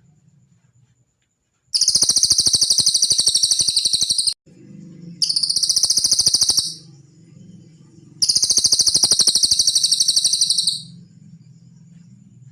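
Cililin bird song played as a masteran recording: three rapid, high-pitched trills of fast repeated notes, the first and last about two and a half seconds long and the middle one shorter.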